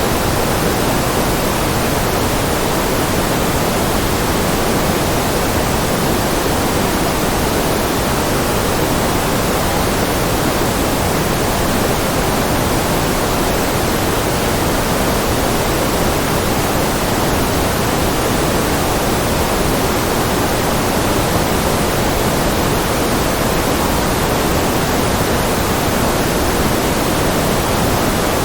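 Continuous generated noise of the white-noise kind: a steady, even hiss, fuller in the low and middle range than at the top, with no change in level.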